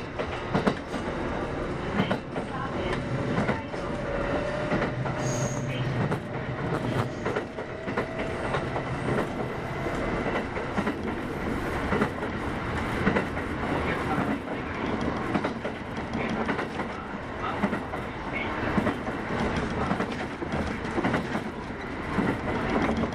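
Kintetsu 8810 series electric train running, heard from inside the car: a steady rumble of wheels on rail with frequent clicks over the rail joints. A faint held tone sounds about three to six seconds in.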